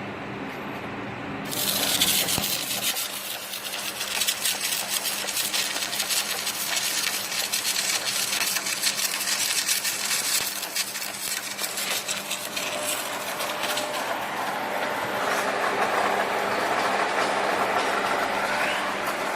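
Electric arc welding: the arc strikes about a second and a half in, then crackles and sizzles steadily. A steady low hum runs underneath.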